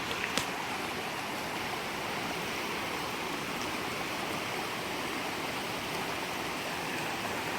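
Steady rushing of a stream's flowing water, with a single sharp click about half a second in.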